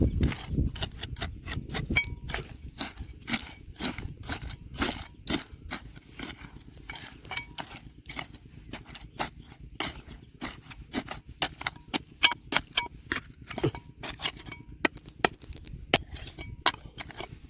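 Hard clicks and scrapes of tools and stones knocking against rock and gravel while digging through river gravel, several irregular knocks a second.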